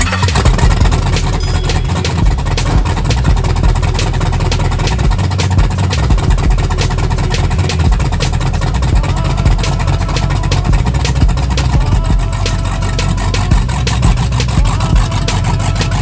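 LQ9 6.0-litre LS V8 in a 1972 Chevelle running at idle, loud, with a dense, even run of exhaust pulses. The exhaust system is not finished yet, so the engine is running without proper mufflers.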